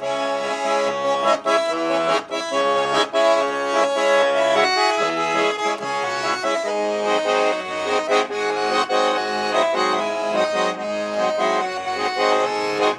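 Accordion playing a melody over chords, an instrumental break between sung verses of a Russian folk-style song.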